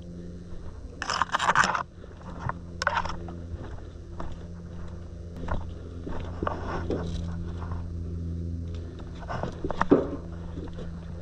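Crunching and scraping from a player moving through brush, coming in a few short bursts about a second in, near three seconds and near the end, over a low steady hum.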